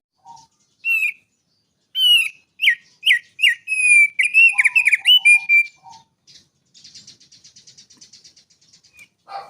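Small songbird singing: a few short whistled notes, then from about two seconds in a loud run of quick sweeping whistles, followed by a fainter, fast buzzy trill near the end.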